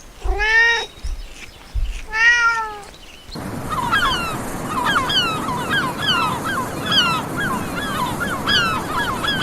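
A domestic cat meowing twice, two drawn-out arched meows in the first three seconds. Then an abrupt cut to a background hiss crowded with many short, high, falling chirping calls, several each second.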